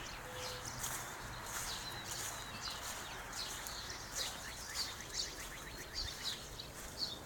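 Small birds chirping: scattered short, high chirps with a couple of quick trills, over steady outdoor background noise.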